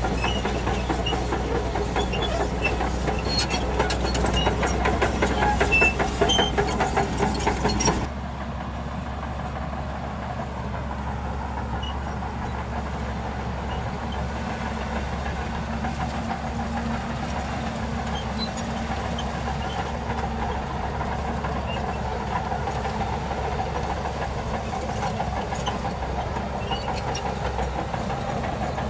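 Shantui DH17C2 bulldozer's diesel engine running under load with a dense clatter of its tracks. About eight seconds in, the sound changes abruptly to a quieter, steadier engine drone.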